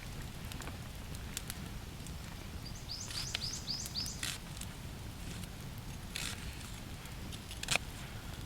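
A bird gives a quick series of about five high chirps, each sweeping down in pitch, over a steady low rumble. Light scattered clicks run through, and a single sharp snap comes near the end.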